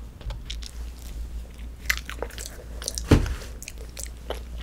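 Close-miked chewing of a fruit-filled macaron (a thick 'ddungcaron'), with soft wet mouth clicks and light crackles. A single low thump comes about three seconds in.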